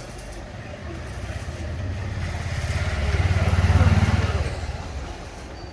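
A motor vehicle, likely a motorcycle, driving past: its engine rumble grows louder to a peak about four seconds in, then fades away.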